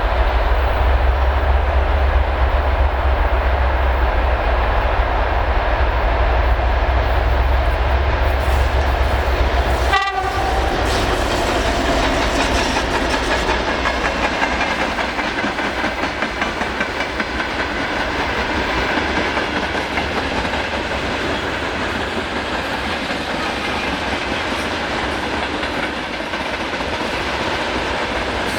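Freight wagons rolling past on the track, their wheels clattering over the rail joints in a steady rhythm. A deep rumble fills the first ten seconds and ends with a sharp knock.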